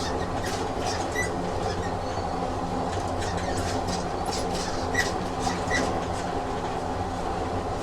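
Train running sound effect: the steady rumble of a moving railway train, with scattered clicks from the wheels and track and a few brief high squeaks.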